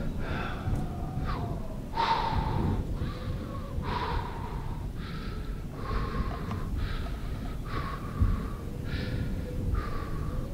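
A cyclist panting hard as he pedals into a strong headwind, about eight heavy breaths coming roughly once a second, with wind rumbling on the microphone underneath.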